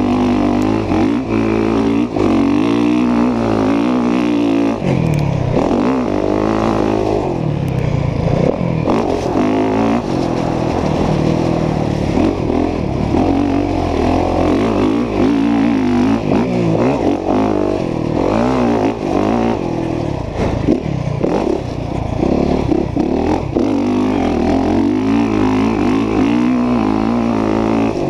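Dirt bike engine running hard while being ridden, revving up and down with the throttle, its pitch climbing and dropping again and again.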